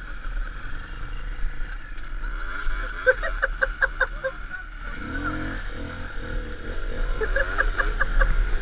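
Vehicle running along a road with a steady engine and road hum. Two runs of quick, regular pulsing come about three seconds in and again near the end.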